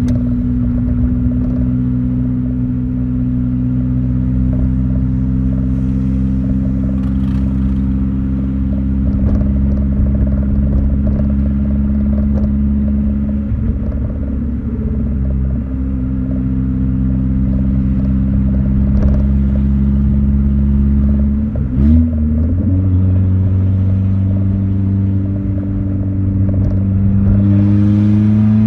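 Chevrolet Corsa engine running through an exhaust with the diffuser opened, holding a steady note as the car drives. A little past twenty seconds in its pitch briefly shifts and settles at a new level, and near the end the note rises as it accelerates.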